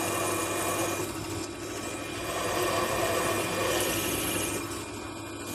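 An electric drill running steadily as it bores a hole of about 8 mm through a welded metal fitting on a hydraulic cylinder. A steady motor hum carries cutting noise that swells about halfway through and eases near the end.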